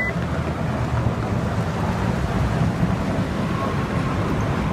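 Steady low rumble of wind buffeting the microphone, with one short high electronic beep from the car right at the start.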